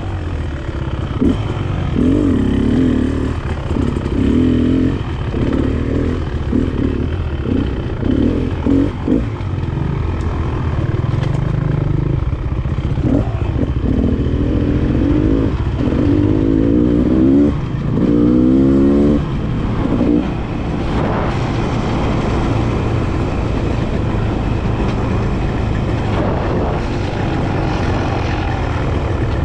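Enduro dirt bike engine being ridden on a trail, the revs rising and falling with throttle blips and short pulls. A few quick rising runs come in the middle, then it settles to steadier, lower running for the last third.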